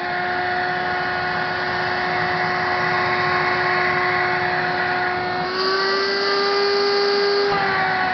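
İhlas Aura Cleanmax water-filter vacuum's motor running at a high speed setting, a steady whine over airflow hiss. About five and a half seconds in, its pitch steps up with a sharper hiss, then falls back about two seconds later.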